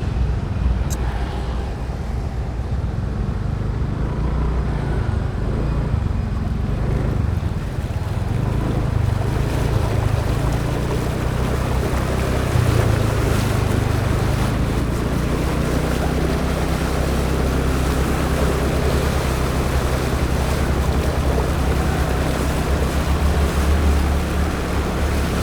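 Motorbike engine running steadily under wind rushing over the action-camera microphone while riding. The wind noise grows louder about a third of the way in.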